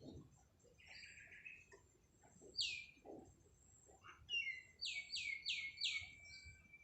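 A bird chirping: one sharp falling note, then a quick run of four falling notes ending in a held whistle.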